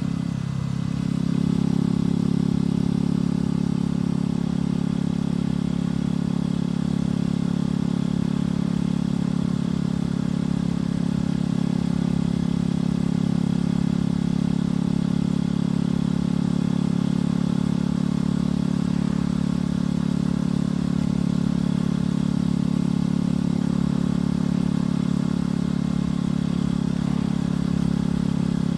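Motorcycle engine and exhaust running at a steady cruise. The note dips briefly right at the start, then picks back up and holds at a constant pitch.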